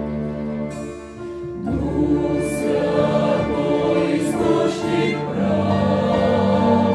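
Church choir singing a hymn over instrumental accompaniment. The voices come in fuller about two seconds in, after held chords.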